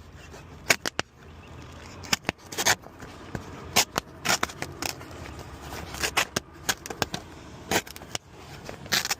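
Irregular clicks, clinks and scrapes of hand work on a wrecked truck's parts, some sharp and loud, over a low steady hum.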